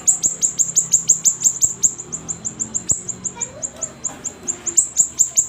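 Siri-siri bird singing a rapid run of short, high chirps that slide downward, about five or six a second, with a brief thinning of the run past the middle.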